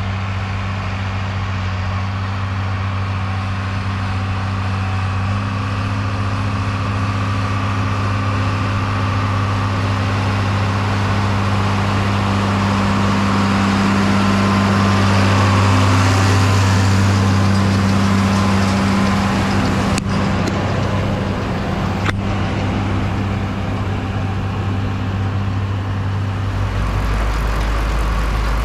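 A vehicle engine running steadily, swelling a little in the middle, with two sharp clicks about two seconds apart later on and a deeper low rumble setting in near the end.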